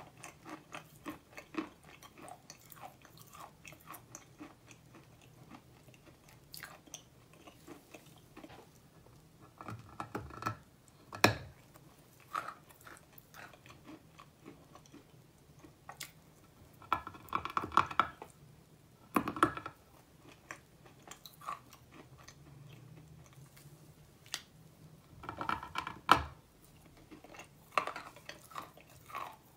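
Chewing a mouthful of chalk bitten from a large block: a steady run of small gritty crunches, with a handful of louder crunches scattered through.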